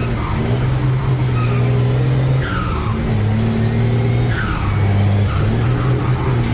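Vehicle engine running steadily with a low drone that shifts in pitch every second or so, with a few short descending squeals over it.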